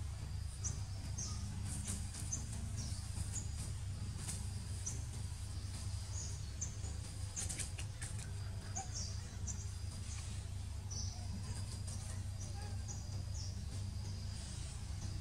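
Small birds chirping, short high-pitched calls repeated irregularly every half-second or so, over a steady low outdoor rumble.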